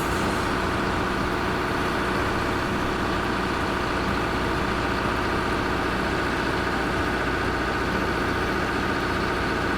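Heavy vehicle engine running steadily at an even pitch.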